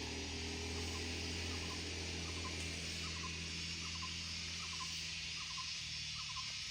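Forest insects buzzing steadily, with a short chirping call repeating about twice a second from about a second and a half in. A low steady hum lies underneath and fades out near the end.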